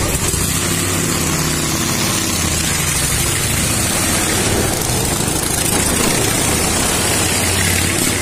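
Indian Scout V-twin motorcycle engine running steadily as the bike circles the wall of death.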